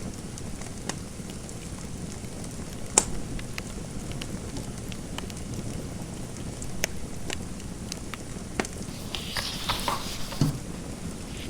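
Wood fire crackling in a fireplace: a steady low rumble with scattered sharp pops, the loudest about three seconds in. A brief scratchy rustle with a few knocks comes near the end.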